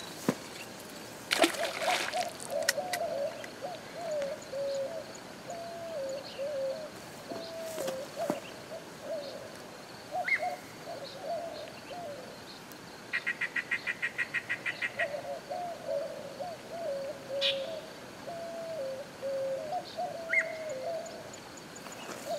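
A bird calling over and over in low cooing notes that bend up and down, in two long runs with a pause between them. A short burst of noise comes about one and a half seconds in, and a fast rattle of about eight clicks a second runs for two seconds in the middle.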